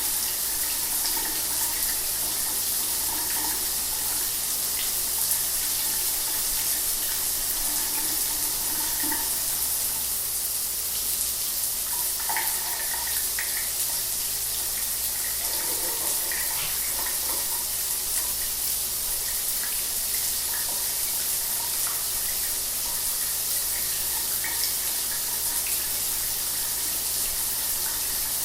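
Shower running steadily, water spraying and splattering in an even hiss.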